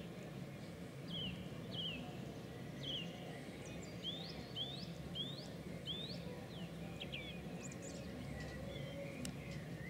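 A bird calling in short chirps: a few falling notes early on, then about five quick upswept notes roughly half a second apart, then a few scattered ones, over a steady low background hum.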